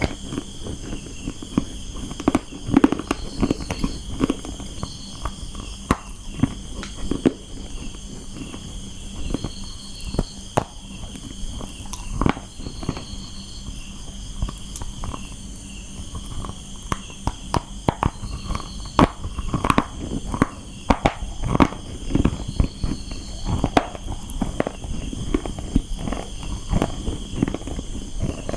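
A person chewing and biting dry brown clay close to the microphone: irregular crisp crunches and cracks.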